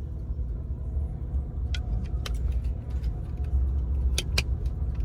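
Car engine running at low speed with a steady low rumble, heard from inside the cabin, with scattered light clicks and rattles.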